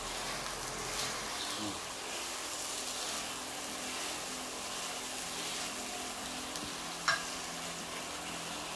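Blended rendang spice paste sizzling steadily in hot oil in a large wok, stirred with a wooden spatula. A single sharp knock comes about seven seconds in.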